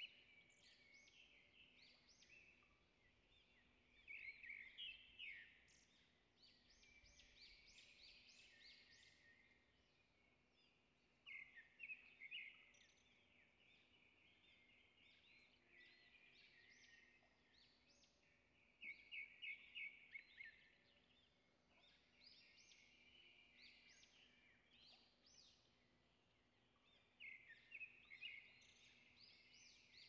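Faint forest birdsong. Every seven or eight seconds a bird gives a quick run of high repeated notes, with softer chirping from other birds in between.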